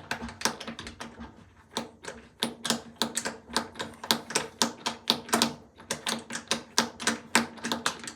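Rapid, uneven clicking, several sharp clicks a second, from hardware being worked loose by hand.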